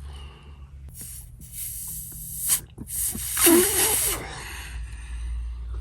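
Two hard puffs of breath blown through a small blocked carburettor pilot jet, each a second or more of hissing air, the second one louder, to clear out the blockage.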